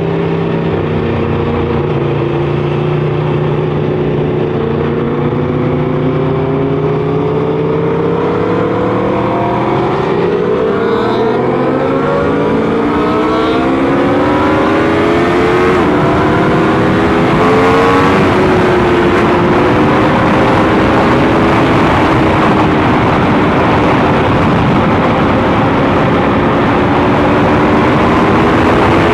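Motorcycle engine heard from onboard the bike. It holds a steady note, then revs up from about a third of the way in, the pitch dropping at a few gear changes. Wind rush builds as speed rises.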